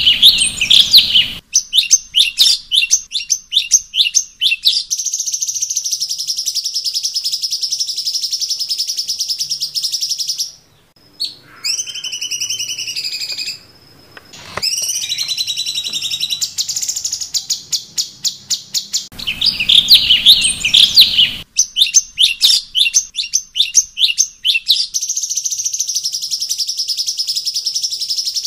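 Cucak cungkok songbird singing: rapid repeated high chattering notes run into long, steady, high trills. Near the middle comes a short break and a few slurred, gliding whistled notes, then the chatter-and-trill sequence repeats.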